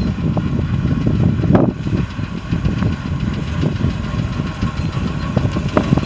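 Ford grain truck's engine idling with a steady low rumble.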